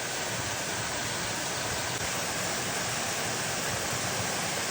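Steady rush of falling water from a waterfall, with no change in loudness.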